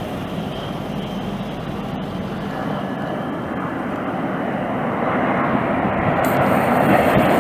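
Jet airliner engines: a steady rushing roar with a faint high whine, growing louder as the aircraft comes closer.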